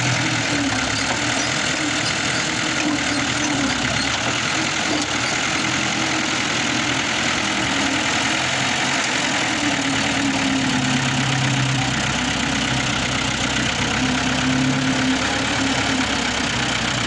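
New Holland 640 tractor's diesel engine running steadily, its pitch shifting slightly now and then.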